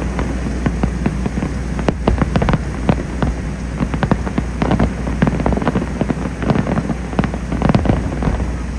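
Aerial fireworks shells bursting in a rapid barrage: a dense, irregular run of bangs and crackles, several a second, over a steady low rumble.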